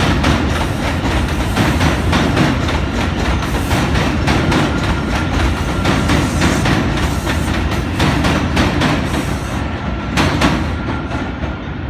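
A New York City subway train running on the elevated steel structure: a loud, steady rumble with the wheels clacking rapidly over rail joints and a faint steady whine. The sound fades near the end as the train draws away.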